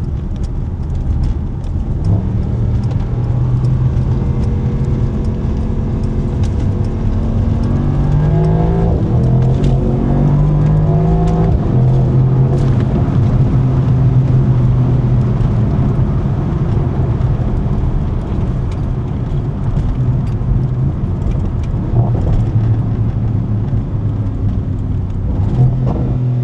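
Mercedes-AMG SL55's 4.0-litre twin-turbo V8 engine and exhaust under way, holding a steady note. About eight seconds in the revs climb in a few quick rising pulls, then settle back to a steady cruise, with short crackles scattered throughout.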